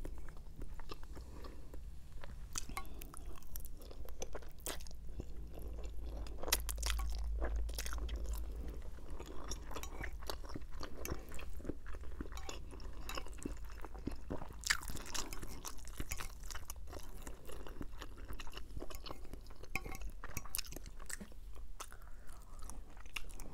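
A person chewing rotisserie chicken and fettuccine Alfredo close to a clip-on microphone: a steady run of wet mouth clicks and chewing sounds.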